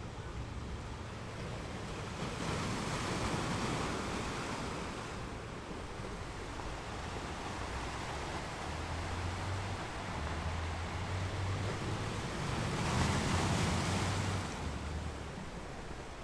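Ocean waves washing onto a shore: a continuous hiss of surf that swells twice, a few seconds in and again near the end, over a steady low rumble.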